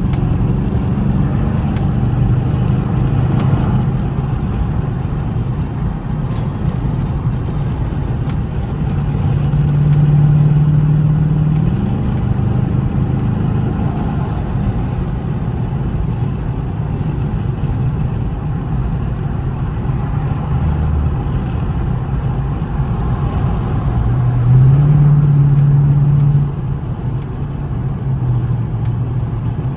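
Dodge Charger R/T's 5.7-litre Hemi V8 running at highway speed through an exhaust with the mid muffler and resonator deleted, a steady deep drone. The engine note climbs and gets louder as the car accelerates about ten seconds in and again near the end, the second pull cutting off suddenly.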